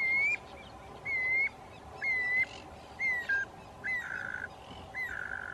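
A bird calling over and over: six clear whistled notes about a second apart, each rising slightly and then falling. The later calls step down into a lower, rougher note.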